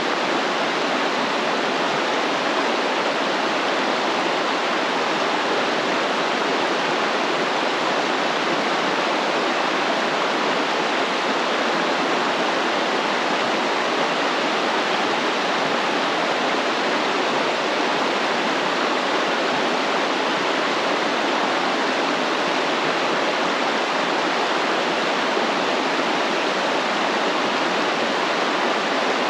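Stream water flowing and rushing with a steady, even sound that does not change.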